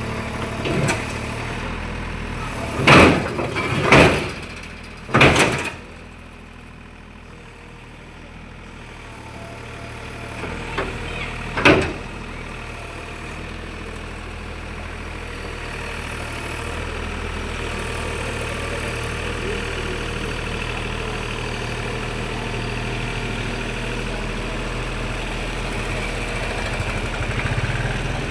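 Sany SY35 Pro mini excavator's diesel engine running steadily, with a few sharp loud clanks about three, four and five seconds in and again near twelve seconds. The engine drops quieter for a few seconds after the clanks, then picks up again and holds.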